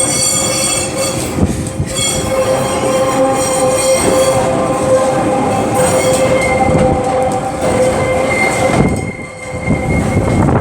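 Rail vehicle rolling on the track, its steel wheels squealing against the rails: a high ringing squeal for the first few seconds, then a steadier running sound with a thinner high squeal near the end.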